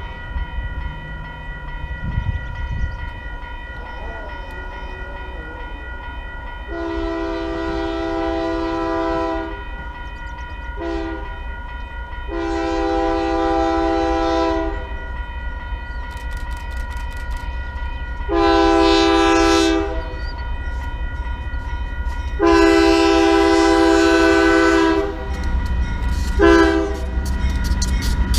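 Diesel locomotive air horn sounding a series of blasts over the steady rumble of the train: several long blasts with short ones between, the last four going long, long, short, long, the standard signal for a grade crossing.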